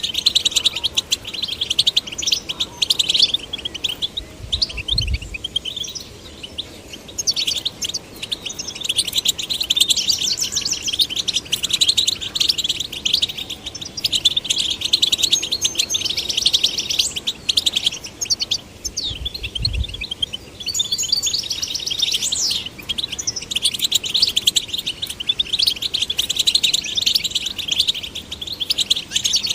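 European goldfinches singing: a fast, almost unbroken twittering song of rapid trills and chirps. Two brief low thumps come through, about five seconds in and again near twenty seconds.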